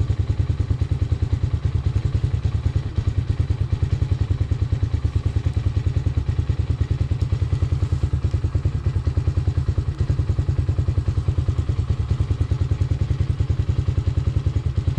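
Hawk 250 motorcycle's single-cylinder engine running steadily at a low, even speed, with a fast regular pulse and no change in revs.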